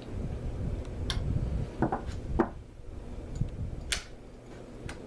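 Handling noise from fishing-reel parts being fitted by hand: a low rubbing rumble with a few light clicks, a short rattle about two seconds in, and one sharp click near the end.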